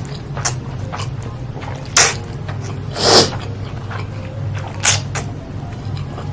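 Close-miked eating sounds: chewing with wet mouth smacks, the loudest about 2, 3 and 5 seconds in, over a steady low hum.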